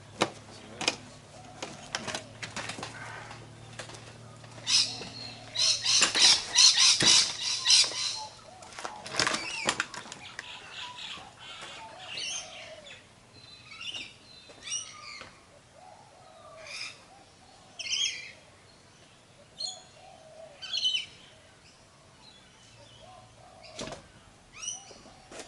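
Short clicks, knocks and rustles from hands working on a bucket seat and its mounting hardware, with a dense burst of rattling about five seconds in, then scattered brief scrapes and rustles.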